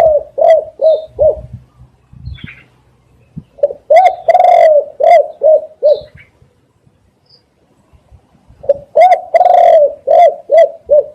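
Spotted dove cooing in repeated phrases, each a run of short low coos with one longer drawn-out note, about every four to five seconds. Faint short chirps of small birds are heard between the phrases.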